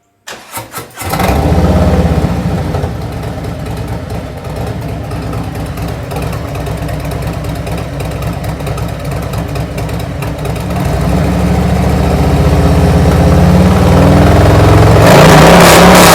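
Harley-Davidson V-twin with newly fitted Tab Performance 50 Cal slip-on mufflers and zombie baffles being started: a brief crank, catching about a second in, then a loud idle through the open-sounding pipes. From about eleven seconds in it is revved, growing louder toward the end.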